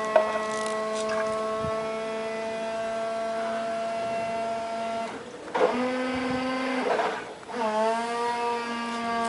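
Electric brake-bleeding pump's motor humming steadily as it pushes brake fluid through the lines. It cuts out briefly twice, about five and seven seconds in, and comes back on, dipping in pitch and then settling back to speed after the second restart.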